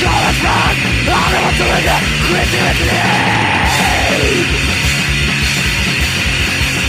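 Swedish crust punk demo recording: distorted guitars and fast, pounding drums, loud and dense, with one held note arching up and then down about three seconds in.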